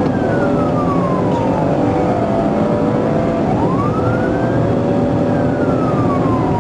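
Police car siren on a slow wail, its pitch falling, rising again about halfway through, then falling once more, over steady engine and road noise.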